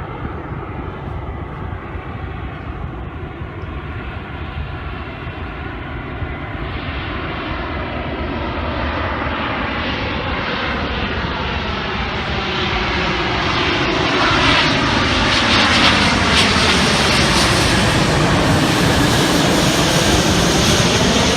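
An aircraft flying over, growing steadily louder and brighter as it approaches, then cutting off suddenly.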